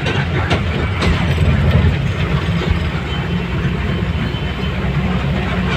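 A large engine running steadily with a deep rumble, with a few sharp clicks or rattles in the first second.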